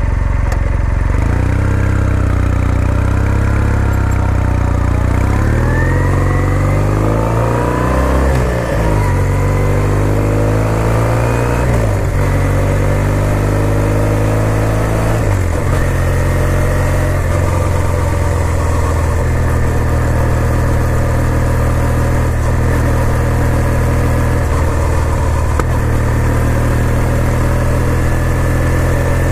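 2020 Kawasaki W800's air-cooled parallel-twin engine under way, heard from the moving bike. Its pitch climbs and drops back three times in the first half, the pattern of upshifts through the gears, then holds at a steady cruising note.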